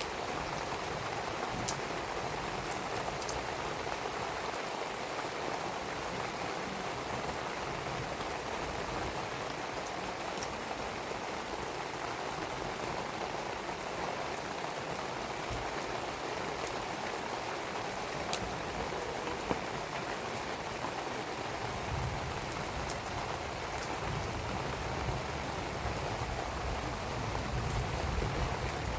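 Steady rain falling, with a few sharp crackles from a wood fire burning. A low rumble joins about three-quarters of the way in.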